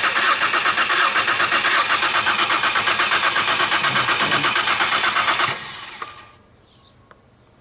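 2005 Ford Escape's engine being cranked by the starter without catching, an even, rapid rhythmic chugging that stops abruptly about five and a half seconds in: the crank-okay, no-start fault being diagnosed.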